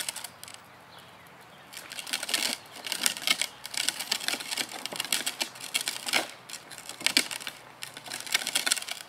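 Irregular crunching and clicking of movement over a rough road surface, the sound of a toddler's ride-on bike rolling along, starting after a brief lull about two seconds in.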